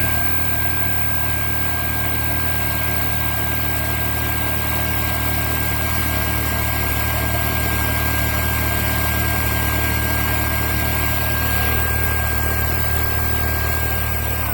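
Dreame H12 Pro cordless wet-dry vacuum mop running steadily, a motor hum with a high whine over it. Right at the end it shuts off and the whine starts to fall as the motor winds down.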